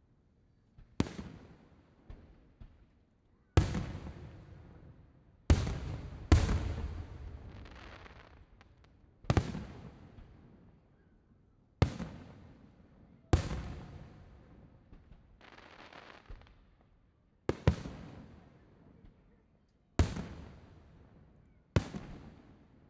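Aerial firework shells bursting: about a dozen sharp booms at uneven gaps of one to four seconds, each trailing off in a long rumbling echo.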